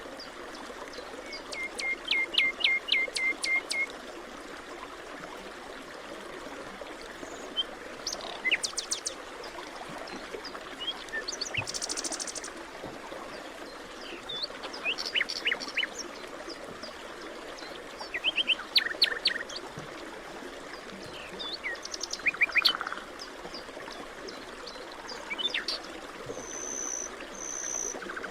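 Forest birds singing and calling in short bursts of rapid chirps and trills every few seconds, over a steady background rush.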